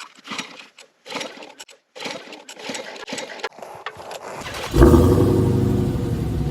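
Minibike engine being turned over, with a few seconds of irregular scraping and clatter, then catching about three-quarters of the way through and running steadily at a fast idle.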